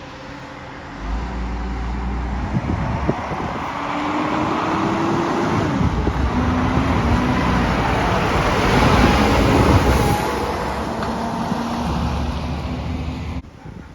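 Garbage truck driving past: engine and tyre noise builds to a peak, with the engine note rising in pitch as it pulls, then cuts off abruptly near the end.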